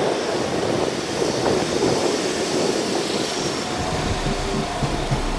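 A West Midlands Railway Class 172 Turbostar diesel multiple unit passing close by, with steady wheel-and-rail running noise and a rattle from its carriages. About four seconds in, a steady hum from its diesel engine comes through, along with low buffeting thumps.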